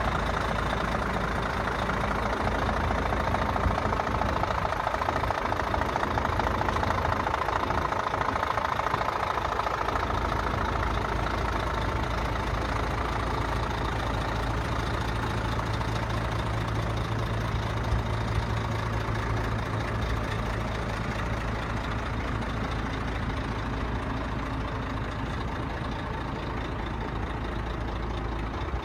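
Scania P114 truck's 11-litre straight-six diesel engine idling steadily.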